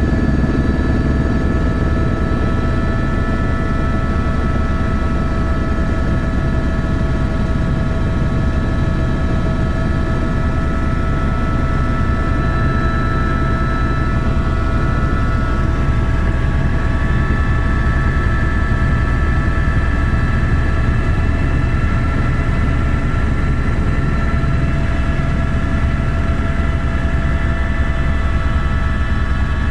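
Helicopter running steadily: a loud, constant low rumble with several steady whining tones above it, which shift slightly about halfway through.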